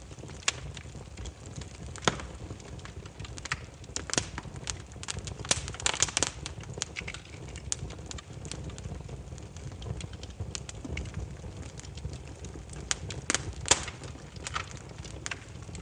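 Wood fire burning, the logs crackling and popping in irregular sharp snaps over a steady low rumble of the flames.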